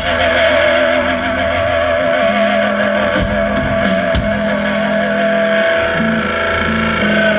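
Live rock band playing an instrumental passage, with an electric guitar holding notes that waver with vibrato over steady bass notes that change every second or two.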